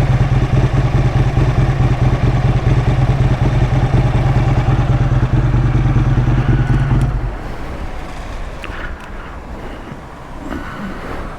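Aprilia RSV1000's V-twin engine idling steadily in neutral while still cold, then cutting out about seven seconds in; a quieter outdoor background follows.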